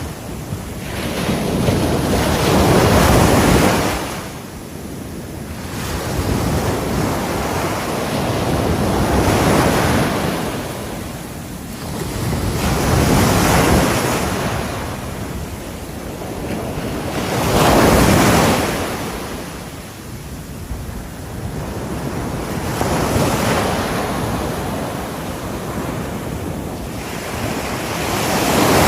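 Ocean waves breaking on a shore, the surf swelling and falling back in repeated surges every four to five seconds, with some wind on the microphone.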